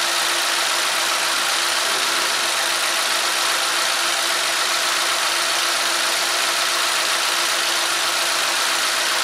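Chevy Ecotec four-cylinder engine idling steadily, a constant running noise with a faint steady hum.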